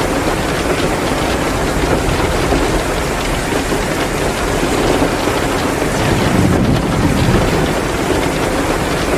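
Steady downpour of heavy rain, mixed with a crackling wood fire in a fireplace.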